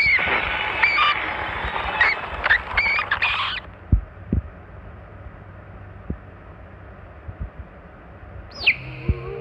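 Halloween tabletop animatronic playing its recorded sound effect: hissy, bird-like calls with swooping pitch that cut off about three and a half seconds in. A few soft knocks follow, then sharp falling shrieks and a low hum start near the end as another effect begins.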